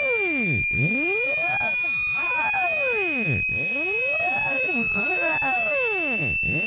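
Electronic speaker-cleaning tones: a steady, piercing high tone that creeps slowly upward in pitch, layered over lower pitch sweeps that dive down and climb back up about every three seconds.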